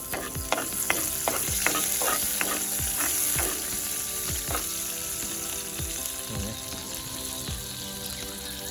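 Food frying in a hot pan with a steady sizzle. A spoon stirs and scrapes the pan in quick strokes, two or three a second, for the first four or five seconds, then the sizzle carries on alone.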